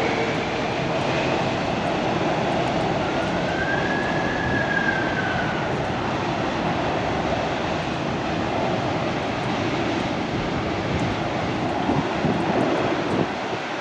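Jet engines of a Qantas Boeing 747-400 running loud and steady, with a faint whine that rises and falls in the first few seconds.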